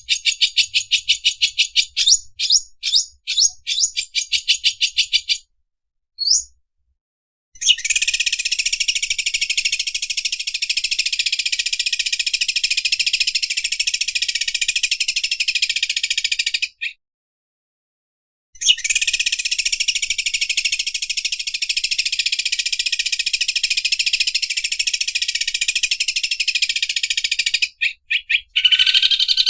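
Greater green leafbird (cucak ijo) singing in the 'mesin obras' style, likened to an overlock sewing machine: a run of quick separate high chirps, then two long unbroken buzzing trills of about nine seconds each with a short pause between.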